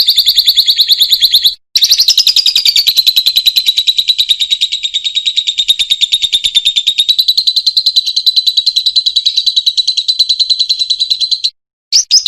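Lovebird's long, rapid chattering trill (the 'ngekek panjang' call), high-pitched and run on for about ten seconds after a brief break near the start, stopping suddenly before a short call near the end.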